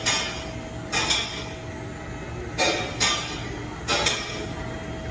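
A string of sharp metallic clanks and knocks, irregularly spaced, roughly one or two a second, over a steady background noise.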